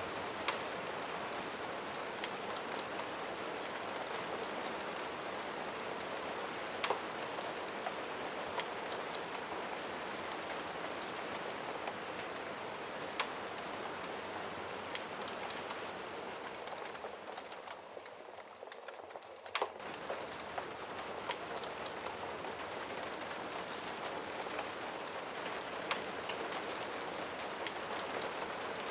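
Steady rain falling on a surface, an even hiss with a few sharp ticks of drops scattered through it. About seventeen seconds in it fades and thins, then comes back at full level suddenly a couple of seconds later.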